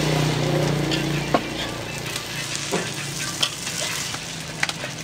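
An omelette frying in hot oil in a metal wok, sizzling steadily, while a metal spatula knocks and scrapes against the wok a few times. A low hum sounds for about the first two seconds.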